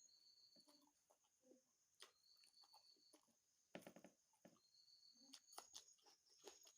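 Faint close-up mouth sounds of eating: wet clicks and smacks while chewing, loudest about four seconds in. A faint high-pitched two-note tone repeats in the background, each note held about a second.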